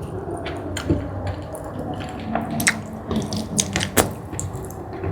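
Close-miked wet chewing and mouth sounds of eating jumbo squid in spicy sauce, with irregular sharp smacks and clicks.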